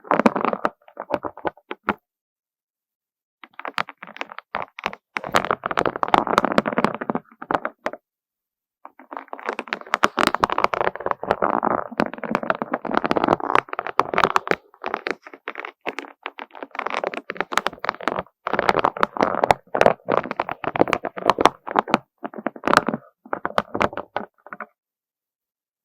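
Small colourful beads clattering against each other in dense runs of quick clicks, breaking off into silence briefly about two seconds in and again around eight seconds.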